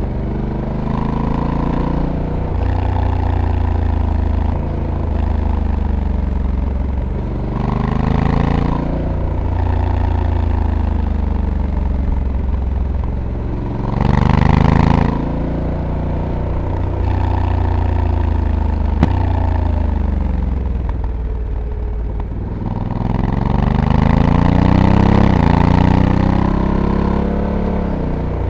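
Honda Africa Twin DCT's 1084 cc parallel-twin engine, heard onboard while riding, its pitch repeatedly climbing under throttle and falling off, with steps where the dual-clutch gearbox changes gear. It gets louder in surges about eight, fourteen and twenty-four seconds in, and there is one sharp tick about nineteen seconds in.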